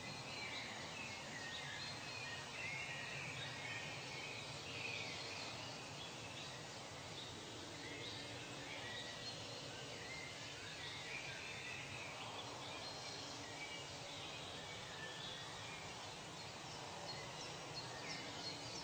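Nature ambience: scattered short bird calls over a steady background hiss.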